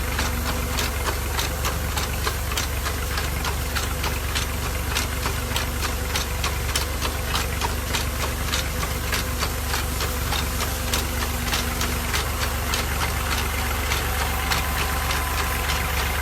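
Diesel tractor engine running steadily while driving a tank sprayer, with a quick, regular clicking over a steady hiss.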